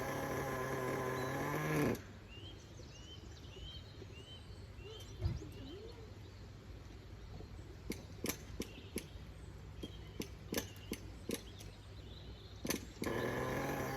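A small nitro engine in a 1/10-scale RC truck runs, rising in pitch and then breaking off abruptly about two seconds in. In the quieter stretch a bird chirps several times in a row, followed by a run of sharp clicks. The engine is running again near the end.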